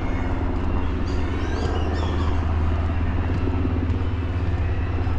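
Steady low mechanical drone of a running motor, with a few faint bird chirps between about one and two and a half seconds in.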